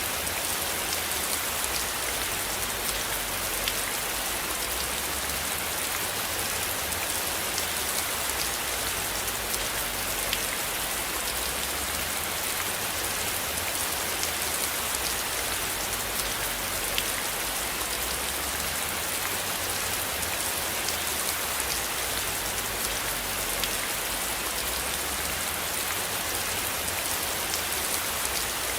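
Steady rain, with many small drops ticking against a surface throughout.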